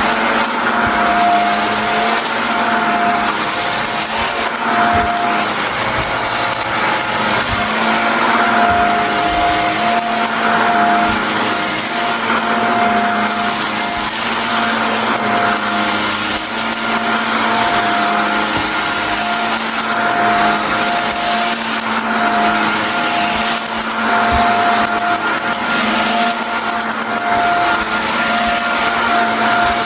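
Vacuum cleaner running steadily, with many fine crackles as it sucks up crunchy dry debris; its motor tone swells and fades every second or so.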